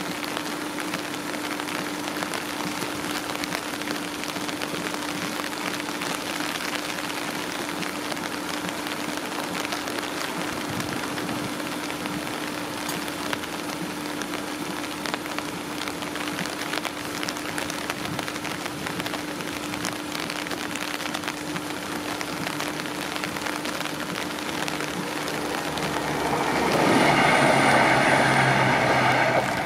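Steady rain hiss with a constant low tone underneath. About 26 seconds in, a passenger train passes through the crossing at speed: a loud rush of wheels and running noise for about three seconds, then it falls away.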